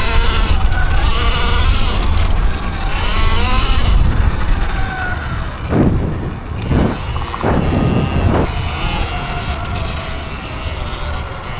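Electric dirt bike motor whining, its pitch rising and falling with the throttle, over heavy wind rumble on the microphone. Two brief louder bursts of noise come a little past the middle.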